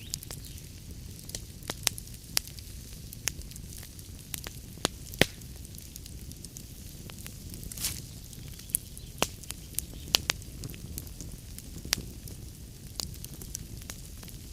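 Wood fire crackling in a fireplace: sharp, irregular pops and snaps over a low, steady rumble of the flames, with a short hiss about eight seconds in.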